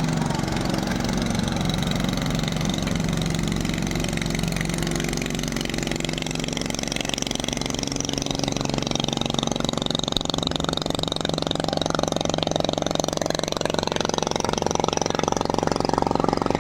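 Longtail boat engine running steadily, getting louder over the second half.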